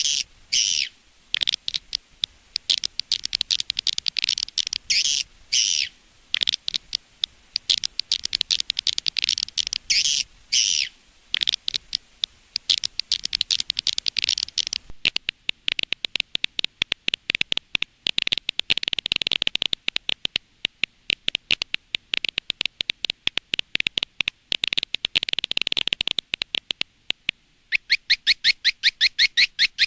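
Swiftlet lure call recording: fast, high-pitched chittering trills of swiftlets in quick bursts with short gaps. About halfway through it changes to a denser, steadier chatter of rapid clicks, and the trills return near the end. It is an outdoor-type call of the kind played outside a swiftlet house to draw edible-nest swiftlets in.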